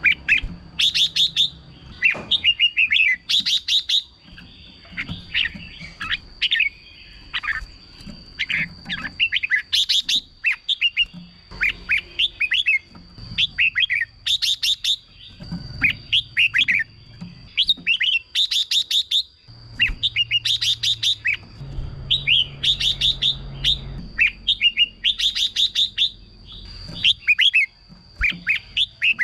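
Red-whiskered bulbul singing: short, quick chirping and warbling phrases repeated every second or two, with a faint steady high whine behind them.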